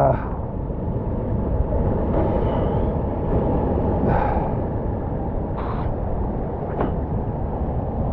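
Steady rushing noise of wind and ocean surf on a rock ledge, with a few brief faint knocks and clicks.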